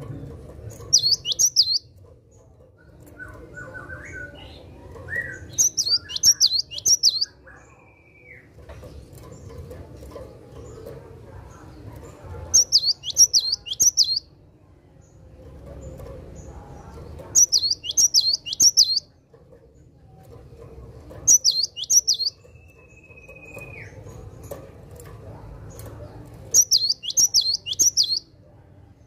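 Cinereous tit (gelatik batu) singing. Six bursts of quick, sharp, high 'wucit-wucit' notes, each about a second long, repeat every four to five seconds. These are the loudest sounds.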